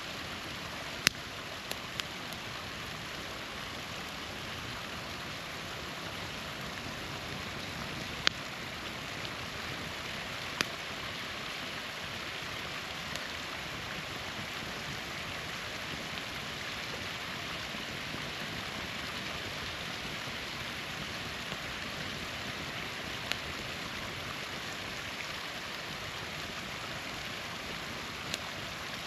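Small waterfall rushing steadily, with a handful of sharp pops from a crackling wood campfire close by.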